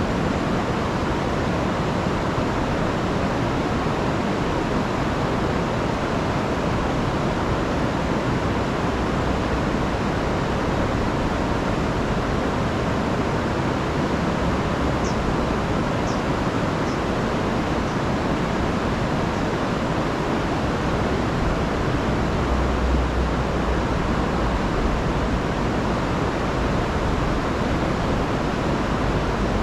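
Rain-swollen river rushing over falls: a steady, unbroken roar of water. A few faint high chirps come in around the middle.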